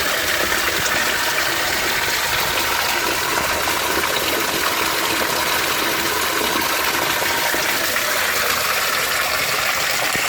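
Mountain water rushing and splashing in a steady, unbroken stream of noise, the sound of a fast-flowing stream or small waterfall.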